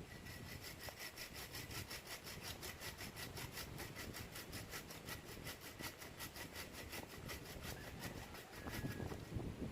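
Hand saw cutting through wood in quick, even strokes, with a faint ringing from the blade; the sawing stops near the end, followed by a few louder knocks.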